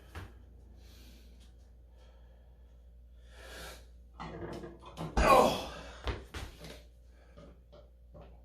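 A man breathing hard and straining on a maximal one-hand grip lift, with a loud strained grunt-like exhale about five seconds in, followed by a short knock.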